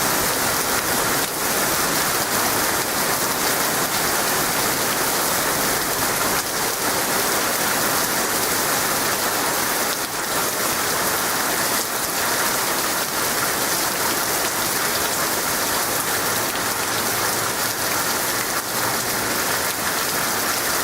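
Heavy, torrential rain pouring down steadily, a dense hiss of drops hitting the ground and surfaces.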